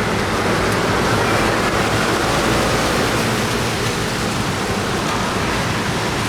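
Steady rushing wash of rain and city traffic, with no single event standing out.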